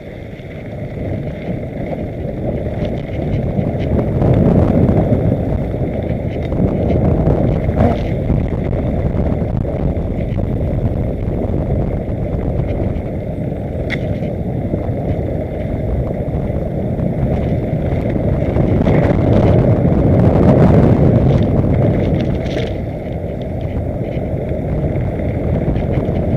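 Mountain bike rolling fast down a dirt trail: a continuous low rumble of tyres and wind on the microphone that swells and eases, with scattered clicks and rattles.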